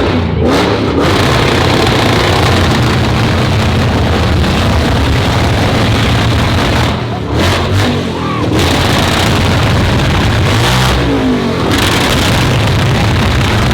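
A car engine revved hard and held at high revs, its exhaust very loud, easing off briefly about seven and again about eleven seconds in.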